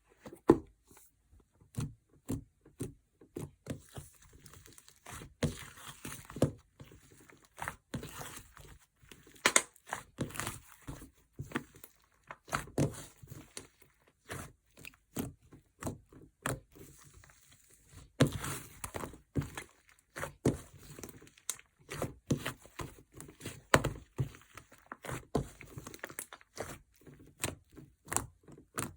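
Mixed slime being squished and pressed by hand, giving irregular sticky clicks and pops.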